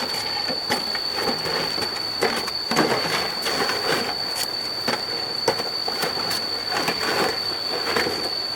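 Irregular scraping and rustling noise with scattered sharp clicks, over a steady high-pitched tone.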